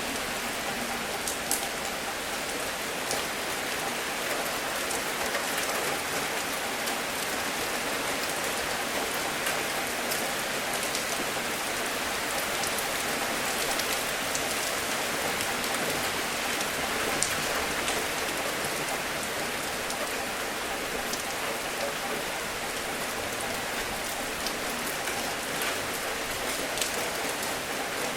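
Steady gentle rain, an even hiss with scattered single drops ticking louder on a nearby surface.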